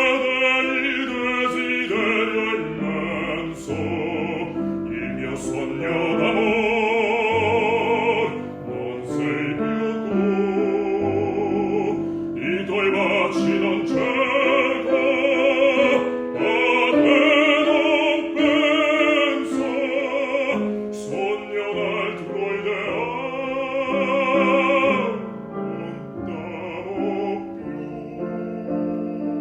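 Operatic bass voice singing a classical art song in Italian with wide vibrato, over piano accompaniment, in long phrases with short breaths between them; it grows softer near the end.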